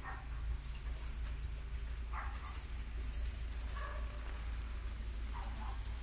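Four short animal calls, one every second and a half or so, over light high ticking of a bird pecking grain off a concrete floor.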